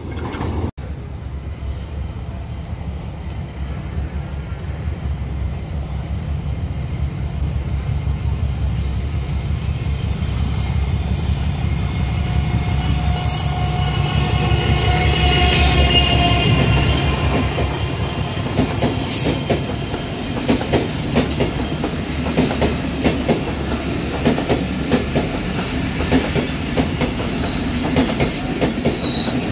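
Diesel-hauled passenger train approaching and passing close by. The locomotive's engine grows louder to a peak about halfway, then the coaches' wheels clatter rhythmically over the rail joints.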